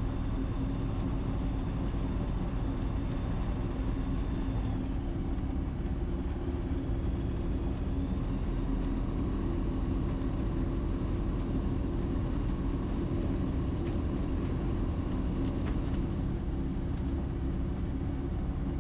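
Ikarus C42 light aircraft's engine running steadily at low taxiing power, a constant drone heard from inside the cockpit.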